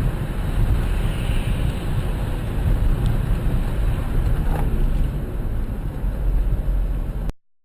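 Steady low rumble of a moving car with wind buffeting the microphone, which cuts off abruptly near the end.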